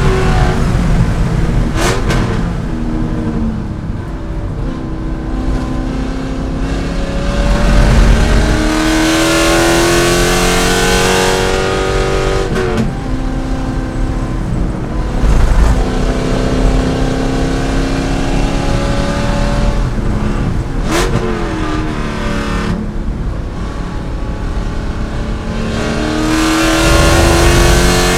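C5 Corvette's V8 racing under hard acceleration and lifting, its note rising in pitch, dropping and climbing again several times, with sharp breaks at the gear changes.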